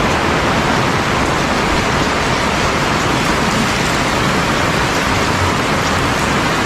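Heavy rain pouring down in a dense, steady hiss, without letting up.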